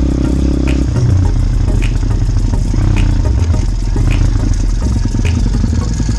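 Small motorbike engine running while riding over rough farm ground, with rattling and knocks about once a second; the engine note drops about a second in.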